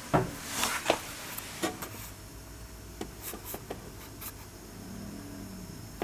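Handling noise around a small refrigerator: a short rubbing swish and a few knocks in the first two seconds, then scattered light clicks, over a faint low hum.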